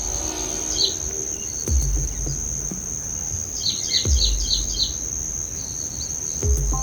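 A steady high-pitched insect buzz, with a bird giving a quick run of about six chirps a little past the middle. Dull low thumps come about every two and a half seconds.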